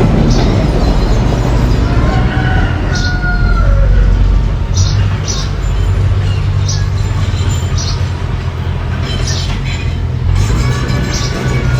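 Mini bulldozer working, its engine running steadily under short metallic track clanks at uneven intervals. The tracks squeal a few seconds in and again near the end.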